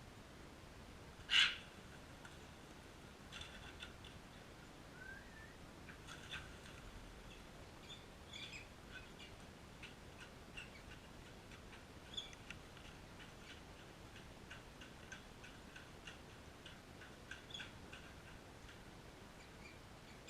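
Crimson rosella giving one loud squawk about a second in, then scattered soft short chirps, with a brief rising chirp in the middle.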